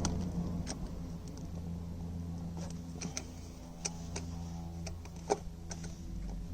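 Scattered metal clicks and taps of an Allen key and spanner working at a seized oil sump drain plug, over a low steady hum. One sharper click comes about five seconds in.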